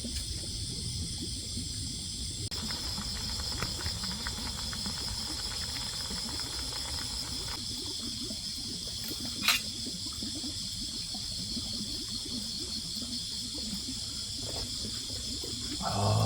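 Chorus of grass insects (crickets and katydids) trilling steadily at a high pitch, with a faster pulsing insect call joining in for a few seconds early on. A single sharp click comes about halfway through.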